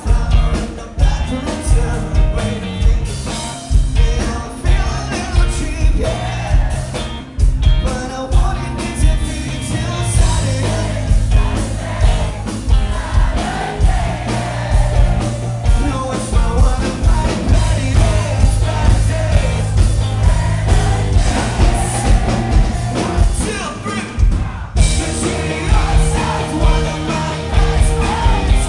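Live rock band playing a song: drums, bass and electric guitars at full volume, with a lead vocal sung over them.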